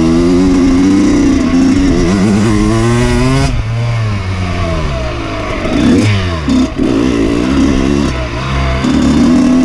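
Dirt bike engine revving under way: the pitch climbs for about three and a half seconds, drops suddenly, then falls and rises again with the throttle.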